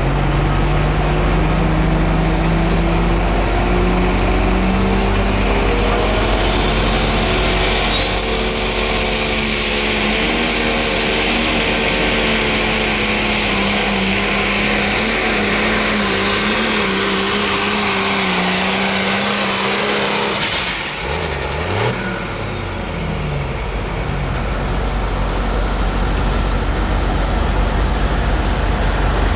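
Pro stock diesel pulling tractor under full throttle during a pull: the engine note climbs over the first several seconds and then holds, with a high turbo whistle rising. About 20 seconds in the engine suddenly lets off, gives a couple of lower revs, and a steady rumble carries on.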